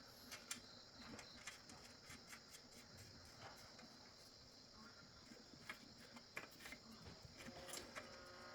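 Near silence, with a faint steady high-pitched insect drone and scattered light clicks.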